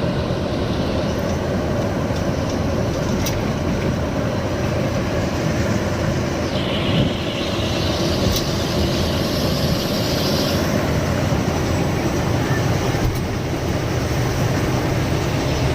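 Steady rumble of a lorry's engine and tyres while driving, with a hissing rush that swells for a few seconds in the middle.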